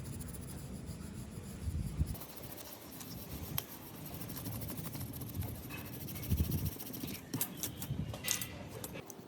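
Rubbing and scraping of parts being handled, with low knocks and a few sharp clicks, several of them close together near the end.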